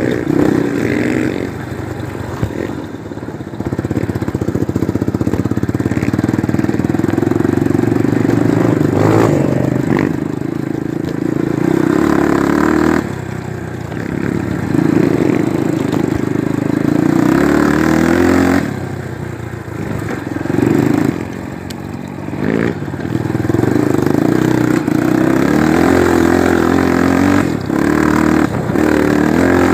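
Single-cylinder four-stroke trail motorcycle engine running under load while being ridden, the engine note rising and falling with the throttle and easing off briefly a few times.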